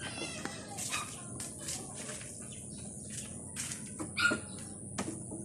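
Birds chirping, with scattered light clicks and knocks, and one louder animal call about four seconds in.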